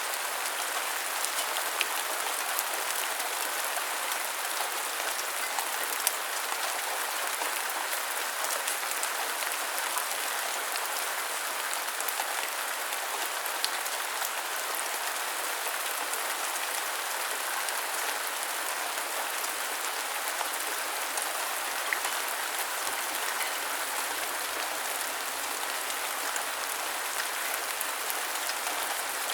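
Steady rain, an even hiss with scattered drop ticks and a few sharper single drips.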